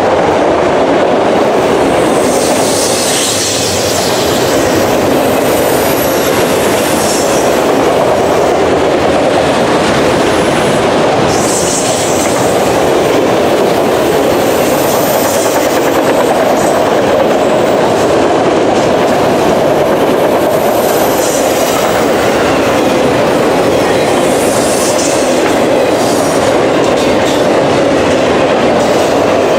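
Freight train cars rolling past with a steady, loud rumble of steel wheels on rail. Brief high wheel squeals rise out of it several times.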